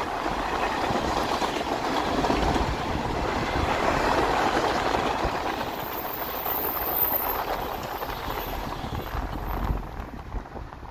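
Freight train cars (tank cars, then open hoppers) rolling past on the rails in a steady rush of wheel and car noise, which drops away about ten seconds in as the last car passes.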